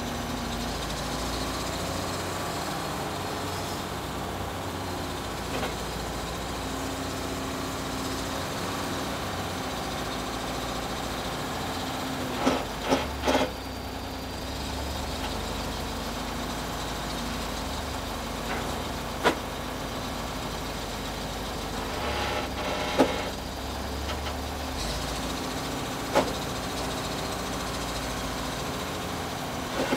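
Backhoe loader's diesel engine running steadily, with a few sharp knocks: a quick cluster about halfway through and single ones later.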